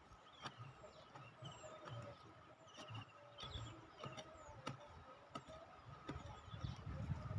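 Faint forest ambience: birds chirping with short high calls over a steady high tone, cut by a series of sharp knocks about one to two a second. Low rumbling handling noise builds near the end.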